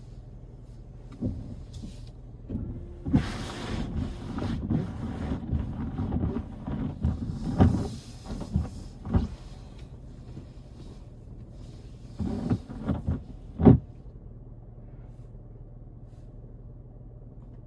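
Inside a moving car: a steady low engine and road hum, with clusters of knocks and rattles from about a second in to nine seconds, and again briefly around twelve to fourteen seconds.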